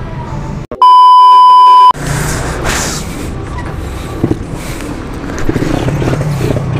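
A loud, steady one-tone beep of about a second, starting just under a second in and cutting in and out sharply: an edited-in censor bleep. Around it, a steady low rumble of engines and traffic.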